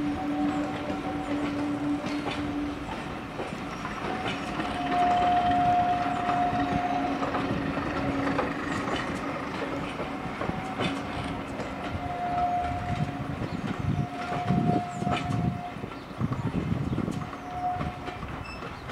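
Passenger coaches rolling slowly along curved track, wheels clicking over the rail joints, with several high steady squeals lasting a second or two each, typical of wheel flanges on a curve.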